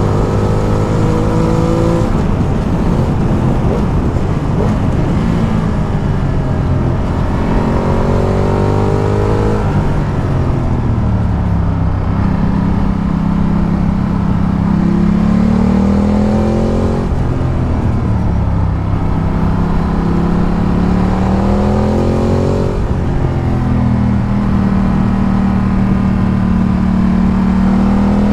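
Ducati Multistrada 1200's V-twin engine under way, revs climbing several times, falling back and holding steady between, as it accelerates through the gears and eases off on a winding road.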